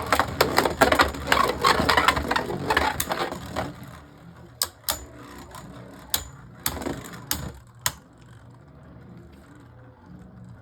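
Two Beyblade Burst spinning tops battling in a plastic stadium. A sharp launch at the start is followed by about four seconds of rapid clashing and rattling, then a few separate sharp clicks of hits as the tops slow, then only their faint spinning.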